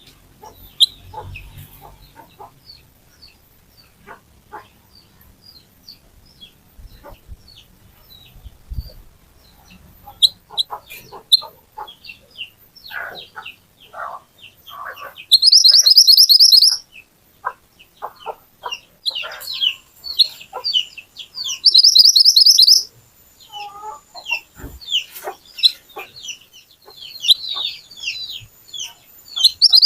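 Songbird known in Indonesia as mantenan or kuniran singing: many short, sharp chirps and whistled notes, broken three times by a loud, rapid trill lasting about a second and a half.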